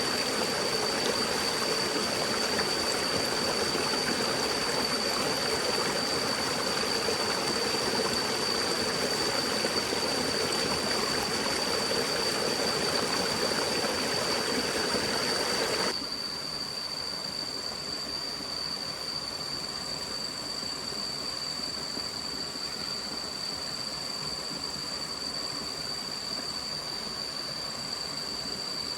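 A stream flowing steadily, with a thin, high, steady tone above it. A bit over halfway through, the sound cuts abruptly to a quieter, thinner steady hiss, while the high tone runs on.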